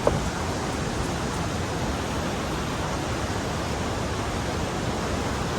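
Steady rushing roar of a fast-flowing waterfall and river, an even wash of water noise.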